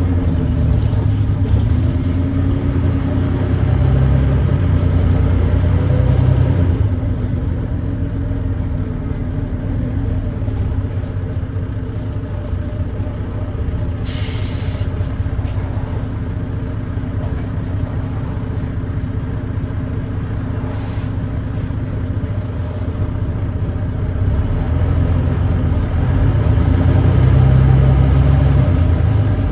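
Volvo B9TL bus's 9.3-litre Volvo D9B diesel engine, which has an exhaust leak, pulling hard with rising pitch at first, then easing to a quieter steady run. A short hiss of air comes about halfway through and a fainter one a few seconds later, and the engine pulls louder again near the end.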